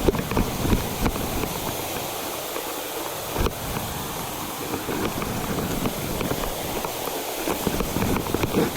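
Footsteps on a trail, a run of irregular thumps and scuffs, over the steady rush of a river.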